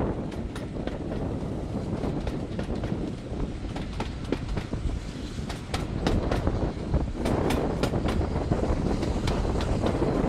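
Railway carriage running along the track: a steady rumble from the wheels, with many sharp, irregular clicks and clacks from the wheels on the rails.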